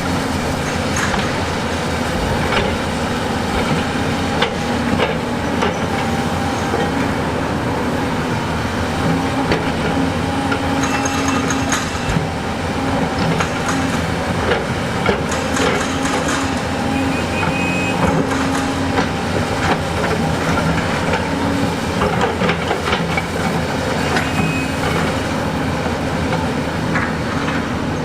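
Heavy diesel earth-moving machinery running steadily under load, with frequent clanks and knocks of steel and rock scattered through it.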